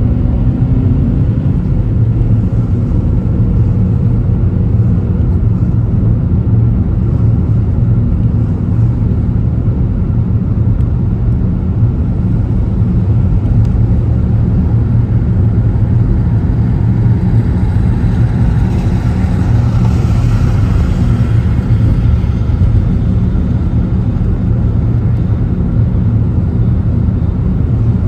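A car driving: steady low engine and road rumble, with a swell of tyre hiss about two-thirds of the way through.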